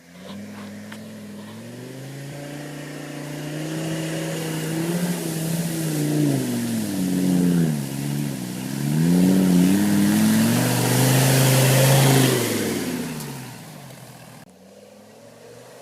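UAZ off-roader's Mercedes OM617 3.0 five-cylinder diesel revving hard, its pitch repeatedly rising and falling, growing louder to a peak about twelve seconds in before dying away near the end.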